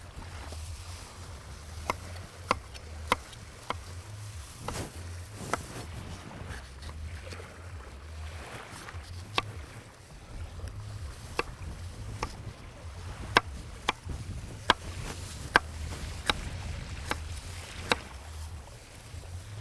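A series of sharp, short knocks at irregular spacing, roughly one a second, over a steady low rumble.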